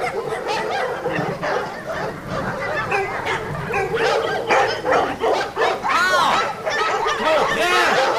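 Dogs yapping and whining: a dense run of short, high yips that overlap, busiest about six seconds in and again near the end.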